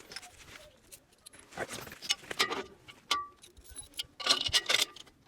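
Loose metal bolts and hardware clinking and rattling as they are handled, in a few separate jingly bursts, with one short ringing clink about three seconds in.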